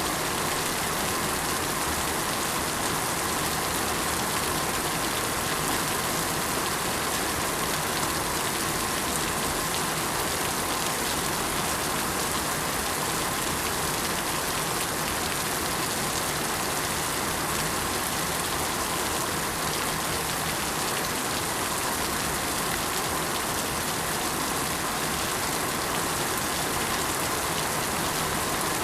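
Steady rain falling and pattering on surfaces, an even hiss of many small drops.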